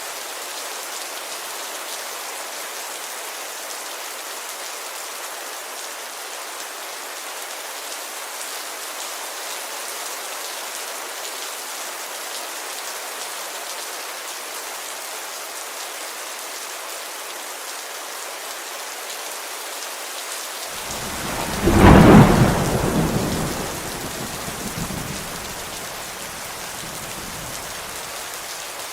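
Steady heavy rain falling on a window, with one thunderclap about three-quarters of the way through that rumbles loudly and dies away over a few seconds.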